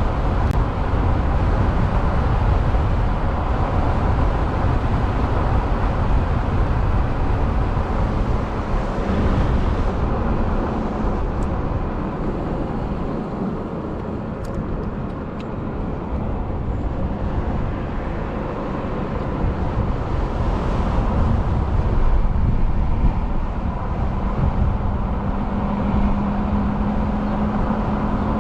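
Wind and road rush while riding an electric motorcycle, a dense low rushing noise with no engine note. A faint steady hum grows louder near the end.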